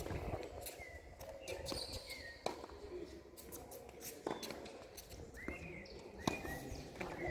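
Tennis sounds on court: a few sharp knocks of a tennis ball, roughly two seconds apart, with footsteps and short squeaks of shoes.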